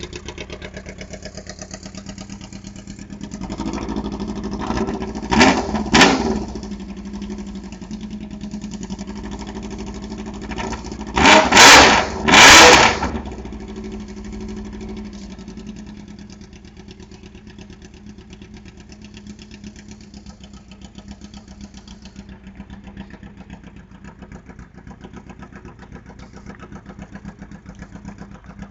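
Yamaha R1's inline-four engine on an open exhaust with the muffler removed, idling and blipped on the throttle: two quick revs about five to six seconds in, then three sharper, louder revs a few seconds later before it drops back to a steady idle. The engine is warmed up but not yet at operating temperature.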